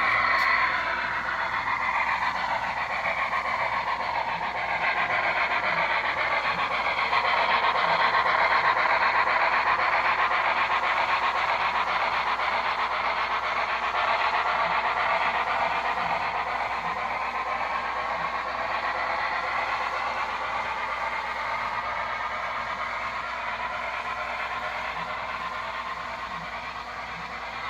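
Model steam locomotive running on a model railroad: a steady rattle and rumble of wheels on track that swells and then slowly fades as the train goes around the layout.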